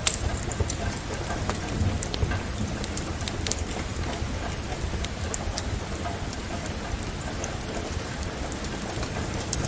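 Steady rain with a deep rumble underneath and scattered sharp crackles of a wood fire burning in a fireplace.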